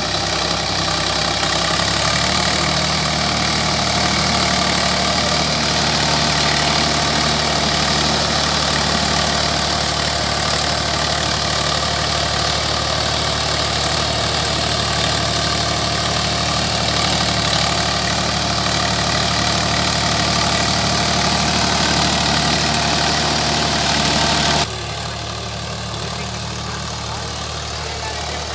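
Tractor engine running steadily at idle. Near the end the sound drops abruptly, becoming quieter and duller.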